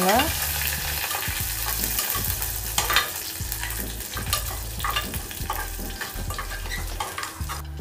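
Curry leaves, green chilli, cashews and spices frying in hot oil in an aluminium pressure cooker, sizzling steadily while a spoon stirs them, scraping and clicking against the bottom of the pan.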